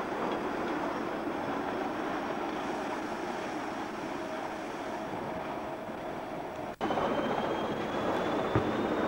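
Electric rack-railway railcar running, a steady running noise. About two-thirds through, the sound cuts out for an instant and goes on as the noise of riding aboard the train, with a faint rising whine and a single knock near the end.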